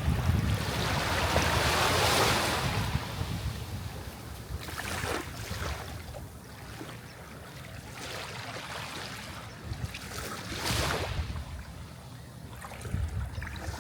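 Sea waves breaking on the shore. One large swell of surf builds and fades in the first few seconds, with smaller washes about five and eleven seconds in, over a low rumble of wind on the microphone.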